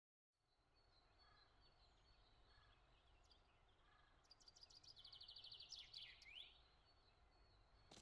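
Near silence: faint outdoor ambience, with a songbird singing a quick run of high repeated notes from about four seconds in that ends in a couple of falling notes.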